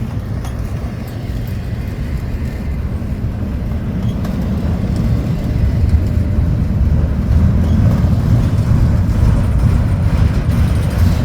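Low, steady vehicle rumble that grows louder about halfway through.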